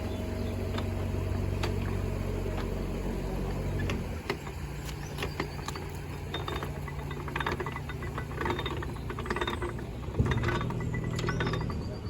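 Canal boat engine running steadily, its note shifting about four seconds in and again near the end. Over it, from about four seconds in, comes a run of irregular sharp metallic clicks, like a ratchet.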